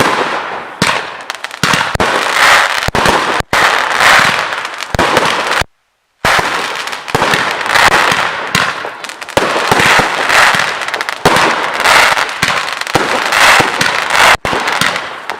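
Consumer fireworks cake, a 96-shot multi-calibre battery, firing in a rapid, continuous run of launches and bursts with crackle. The sound drops out for about half a second around six seconds in.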